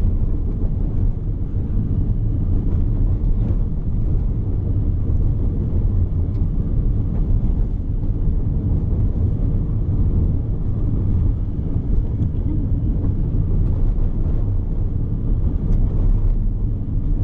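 Car driving along a desert road, heard from inside: a steady low rumble of engine and tyre noise, with a few faint ticks.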